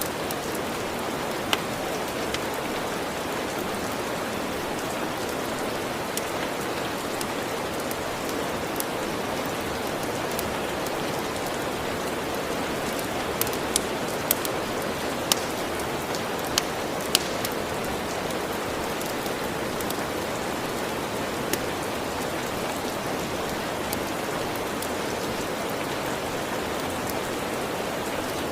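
Steady rain falling, with occasional sharp pops of a crackling wood fire, a cluster of them about halfway through.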